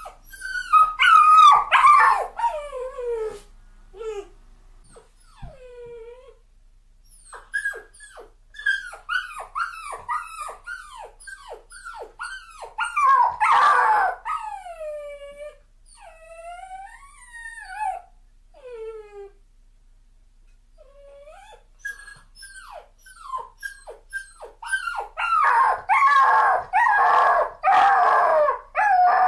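A dog crying: repeated high-pitched whines and yelps that fall in pitch, coming in clusters, loudest about a second in, in the middle and near the end, with a short lull in between.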